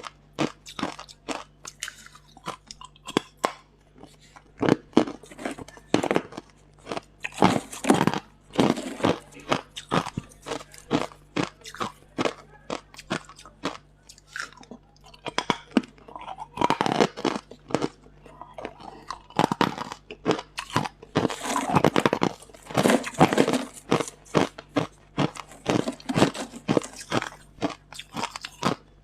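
Hard ice being bitten and chewed close to the microphone: a rapid run of sharp, loud crunches, several a second, coming in thicker clusters as fresh pieces are bitten and ground between the teeth.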